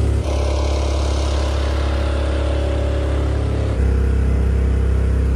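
Mokai jet-powered kayak's small gasoline engine running steadily under way, a loud, even drone that shifts abruptly in tone twice.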